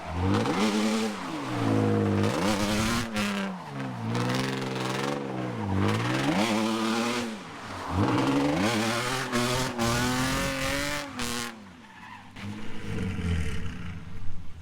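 Drift car engine revving hard, its pitch climbing and falling again and again as the throttle is worked, with tyres squealing and skidding under it. About twelve seconds in the revving stops and the car drops to a quieter idle.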